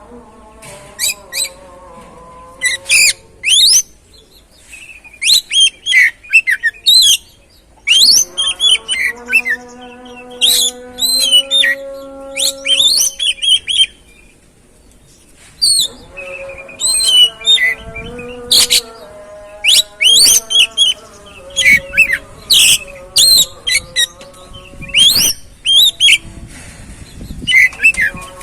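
Oriental magpie-robin (kacer) singing a fast, varied song of sharp whistled chirps and trills in bursts, played as a lure song to prompt a caged kacer to sing. Soft background music with long held notes runs beneath it.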